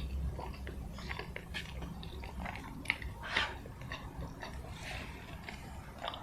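Close-miked eating sounds: steady chewing with many small clicks and crackles, and two sharper bites a little after three seconds in.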